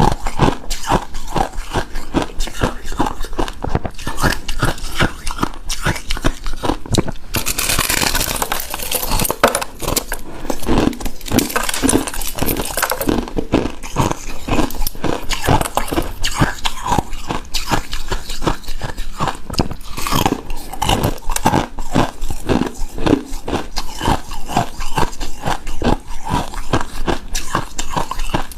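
Close-miked eating of shaved snow ice: a steady run of crunching and chewing, many crisp crackles a second, with a hissier crunchy stretch about eight seconds in and again around twelve seconds.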